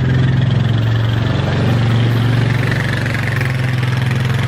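A vehicle's engine running steadily at a low, even pitch.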